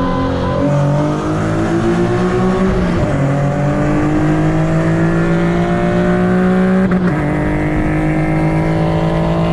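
Tuned Nissan 370Z's 3.7-litre V6 accelerating hard, its pitch climbing steadily in each gear with upshifts about a second in, about three seconds in and about seven seconds in.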